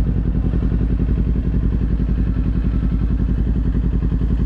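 Kawasaki Z400's parallel-twin engine idling steadily with an even, fast pulse, the bike stopped at a red light.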